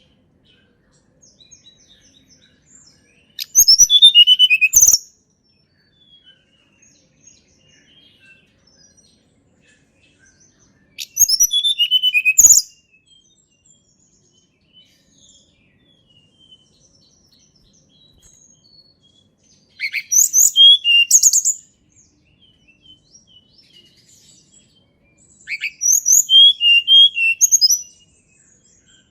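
A tledekan gunung singing four short phrases of quick high notes, each about one and a half to two and a half seconds long, with notes stepping down in pitch, and faint chirps in the gaps between phrases.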